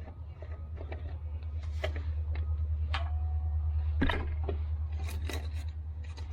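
Motor oil being poured from a jug into the engine's oil filler, a low gurgling that swells and then eases off, with scattered clicks and knocks from handling the jug.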